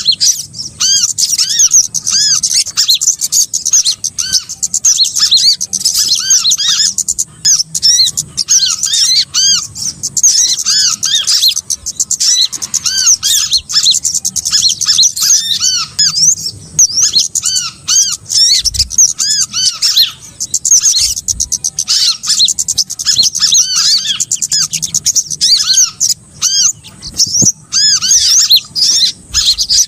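Dense, unbroken chorus of small songbird calls used as a bird-trapping lure. Rapid high chirps and short arched notes repeat several times a second.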